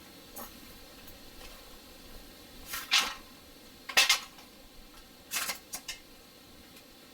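Several short clatters and rustles of gear being handled. The loudest come about three seconds in and twice in quick succession about four seconds in, with a couple more near the end.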